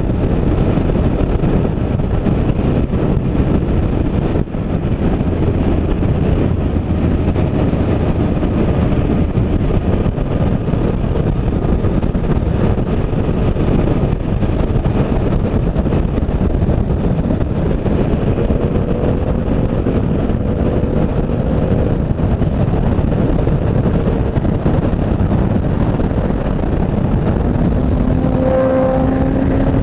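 Motorcycle running at road speed on a highway, mostly a steady rush of wind over the microphone, with a faint engine note that climbs in pitch near the end.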